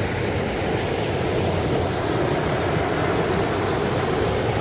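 Water rushing over a low rocky waterfall on a river: a steady, even rush with no breaks.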